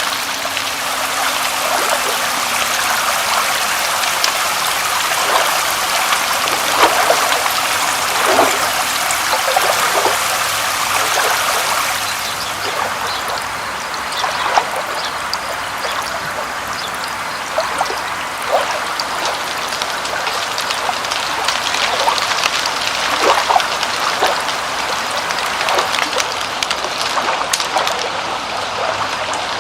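Steady rain with water trickling, many separate drops splashing over an even hiss. The highest part of the hiss thins a little about twelve seconds in.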